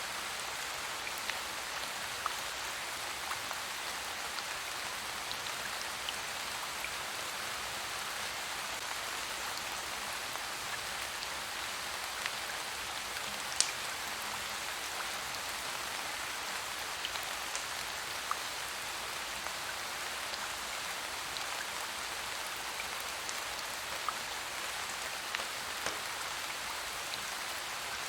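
Steady rain falling, a continuous even hiss with scattered sharp ticks and pops, one noticeably louder about halfway through.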